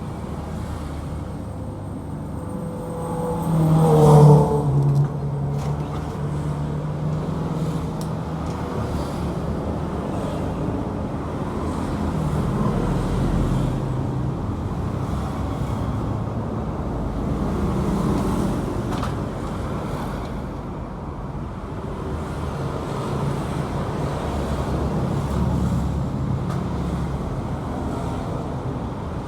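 Single-cylinder engine of a Yamaha Exciter 135 motorcycle running steadily, with a short burst of revving about four seconds in whose pitch falls back as it returns to a steady run.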